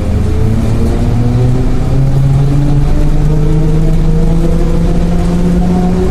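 Trolleybus ride: the electric traction drive whines, rising steadily in pitch as the trolleybus accelerates, over the low rumble of the moving vehicle.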